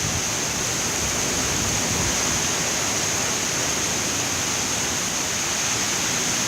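Hurricane wind blowing steadily: a dense, unbroken rush of noise with no let-up.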